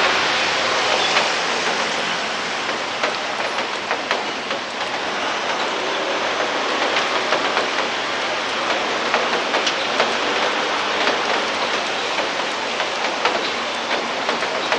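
Steady rain falling: an even hiss with many sharp ticks of individual drops striking nearby surfaces.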